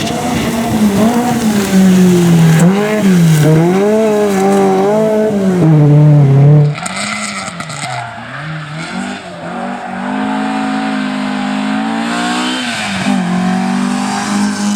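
Rally car engine revving hard, its pitch rising and falling over and over as the throttle is worked. About seven seconds in the sound cuts off abruptly to another rally car engine, running at a steadier pitch before dipping near the end.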